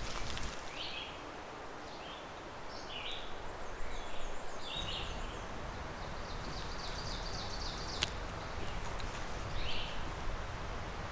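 Small birds chirping in short high notes and two rapid trills over a steady woodland hiss, with a single sharp click about eight seconds in.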